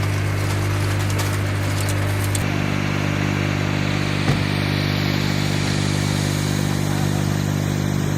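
A motor engine running steadily with an even low hum. Its note shifts slightly about two and a half seconds in, and a single short click comes a little after four seconds.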